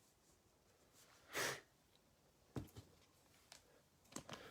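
Near silence: one short sniff about a second and a half in, then a few faint clicks and taps of trading cards being handled.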